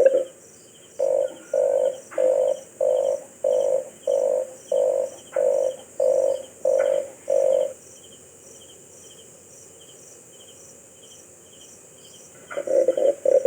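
Red collared dove cooing: a run of about eleven short, low, evenly spaced coos, then a pause, then a quicker run of coos starting near the end. A faint regular ticking sounds in the background.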